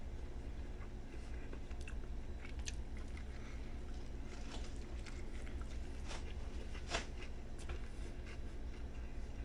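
A person biting and chewing a sub sandwich, with scattered short crunchy mouth sounds, the sharpest about seven seconds in, over a steady low hum.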